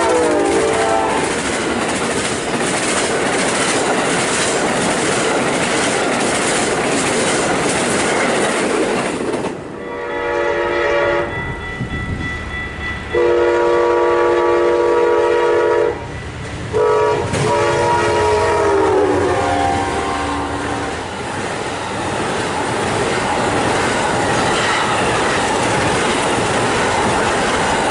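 Train running past close by, wheels clattering over the rail joints with a heavy rumble. About ten seconds in, its multi-note air horn sounds a series of blasts. The last blast drops in pitch as it passes, and the rumble of the cars goes on after it.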